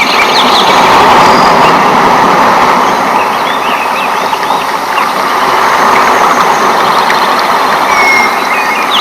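Rainforest ambience: a steady rush of rain, with many birds chirping and whistling over it.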